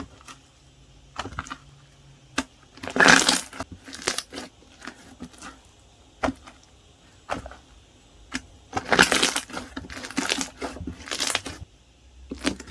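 Floam slime, a soft glossy base with small foam balls, being squeezed and pressed by hand. It gives irregular crackling pops and squelches, with louder stretches of crackling about three seconds in and again from about nine to eleven seconds.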